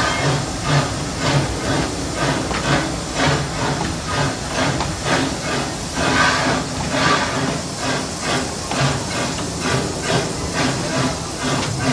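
Steam locomotive chuffing steadily at about two exhaust beats a second, with steam hissing, as it works the train up a grade.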